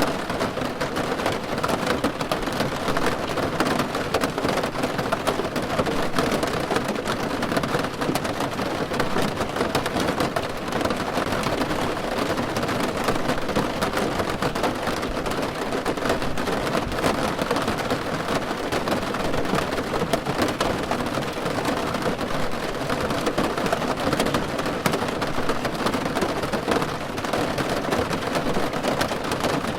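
Steady rain falling on a car's roof: an even wash of noise dotted with many small drop ticks, holding a constant level throughout.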